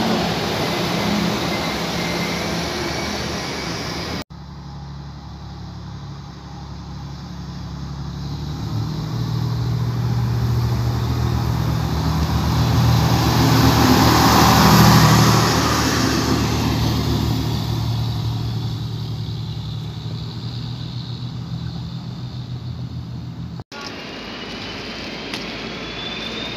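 Diesel trains at a station. A red-and-grey diesel railcar passes close by, its engine hum and running noise swelling to a peak about halfway through and then fading. It is preceded briefly by a SWEG Alstom Coradia Lint diesel multiple unit running, and followed near the end by a DB double-deck train with a slowly rising whine.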